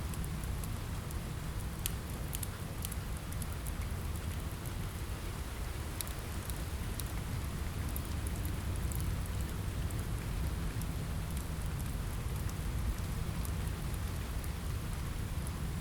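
Steady rain on a window mixed with a crackling fire: an even hiss of rain over a deep low rumble, with scattered sharp crackles.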